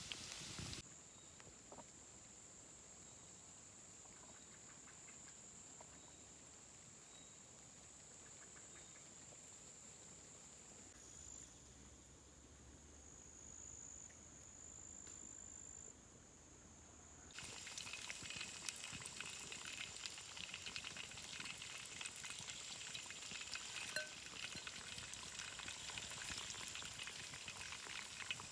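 Food sizzling and crackling as it fries. A quieter stretch with a thin, steady high tone gives way about two-thirds of the way in to dense, louder sizzling.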